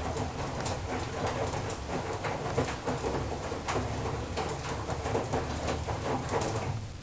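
Front-loading washing machine running, its drum turning with a low steady hum and irregular clicks and knocks from the load tumbling inside. The sound drops away sharply near the end.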